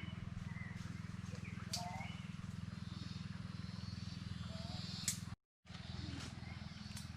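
Short bird chirps scattered over a steady low hum, with a few clicks; the sound cuts out completely for a moment about five and a half seconds in.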